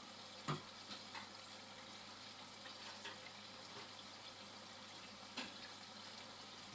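Indesit washing machine mid-cycle: a faint, steady watery hiss from the machine, broken by a few light clicks.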